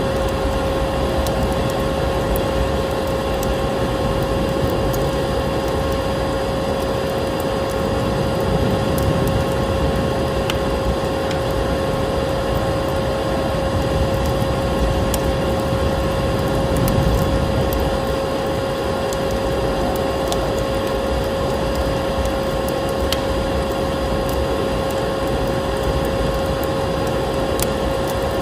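Electric vacuum cleaner running steadily with a constant hum, mixed with a wood fire crackling in a fireplace, its small sharp pops scattered irregularly over the motor noise.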